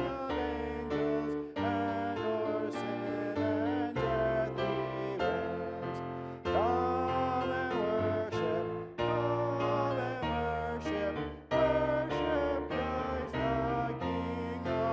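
Music of a hymn of praise: accompanied chords changing about once a second, with a sung melody line above them.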